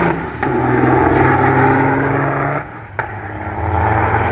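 Trucks drag racing, their engines running hard at full throttle down the strip. The engine sound drops briefly about two and a half seconds in, then picks up again.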